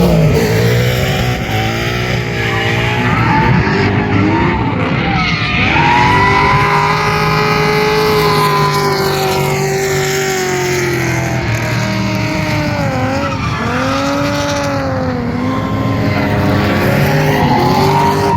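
Drift car on track, its engine revving up and down through long sweeps while the tyres squeal in a slide.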